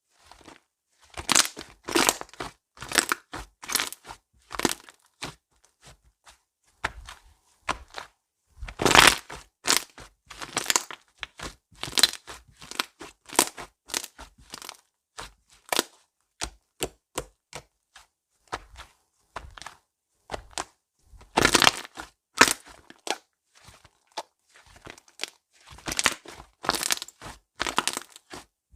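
Slime being pressed, folded and stretched by hand, giving off irregular sharp crackles and pops in clusters. The loudest bursts come about two seconds in, about nine seconds in, about twenty-one seconds in and near the end.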